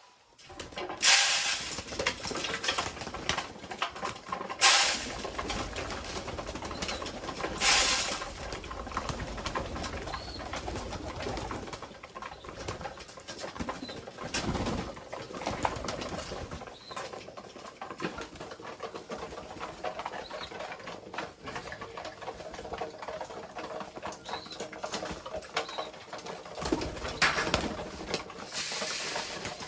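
Domestic pigeons cooing, with a few short loud rustling bursts spread through the stretch.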